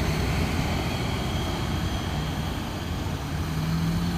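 Heavy diesel vehicle's engine labouring as it takes a steep uphill hairpin, a steady low drone whose pitch climbs a little near the end.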